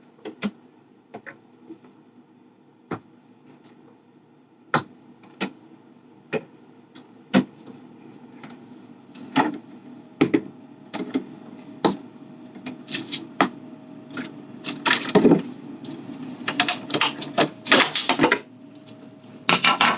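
Clicks, knocks and clatter of food containers and fridge parts being handled and set down, a few separate knocks at first and then rapid clattering through the second half.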